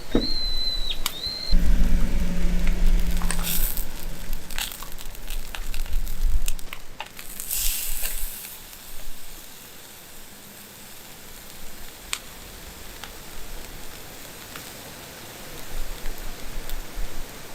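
Wood campfire crackling, with scattered sharp pops and snaps. A low rumble runs through the first few seconds, and a short hiss comes about eight seconds in.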